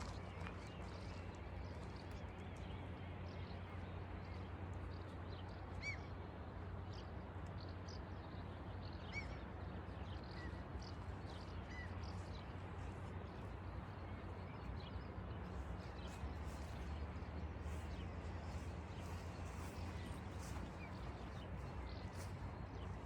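Steady outdoor rushing noise with a handful of short, high bird chirps scattered through the first half, and faint ticks later on.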